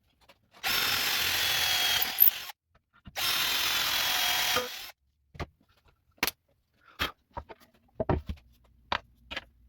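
A power tool runs in two bursts of about two seconds each, with a steady high-pitched hiss and a faint whine, followed by a few scattered clicks and knocks.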